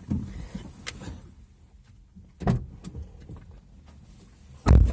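Hyundai Elantra body being rocked by hand: three dull knocks from the car body, roughly two seconds apart, the last one loudest. Rocking the car does not bring out the trunk creak being hunted.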